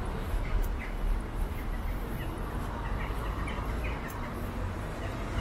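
A series of faint, short bird chirps from the trees, over a steady low rumble.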